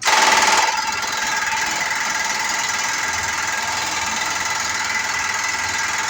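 A motor-driven machine starts abruptly and runs steadily with a steady whine, loudest in its first half second.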